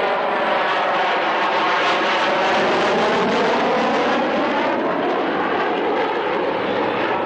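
Aircraft flying past with a loud, steady engine roar.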